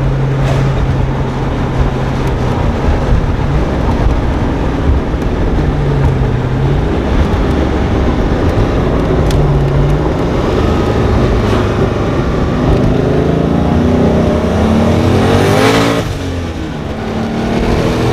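Twin-turbo 5.3-litre LS V8 in a Fox-body Mustang, heard from inside the car: running steadily at first, then from about two-thirds through the revs climb steeply under hard acceleration. Near the end there is a brief break, like a gear change, and the engine starts pulling again.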